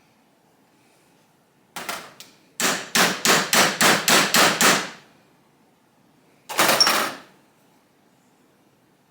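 Hammer blows during motorcycle reassembly work. Two blows about two seconds in, then a quick run of about eight blows at roughly three to four a second, then one more short burst of blows.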